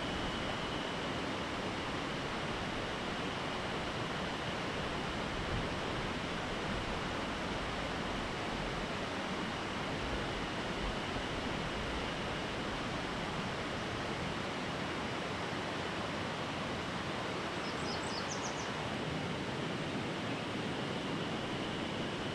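Steady rushing of running water, an even noise throughout, with a faint steady high tone over it and a few short high chirps about eighteen seconds in.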